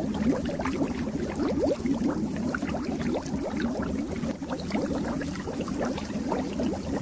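Fish tank water bubbling: a steady, dense stream of small bubbles gurgling and popping at the surface.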